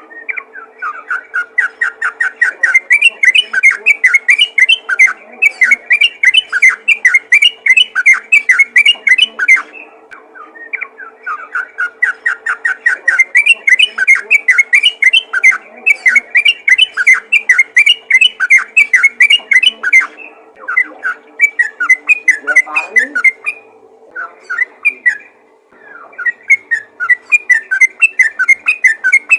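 Yellow-vented bulbul (trucukan) singing in long runs of rapid repeated notes, about five a second, with short breaks partway through; this rapid 'ropel' song is a call that draws other bulbuls. A faint steady hum lies underneath.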